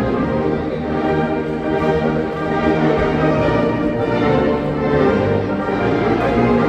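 Sierra Mixe banda filarmónica, a brass and woodwind band, playing a passage of long held notes.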